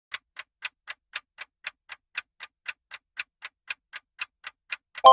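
Clock-style countdown timer sound effect ticking evenly, about four ticks a second. It ends in a bright ringing chime just at the close.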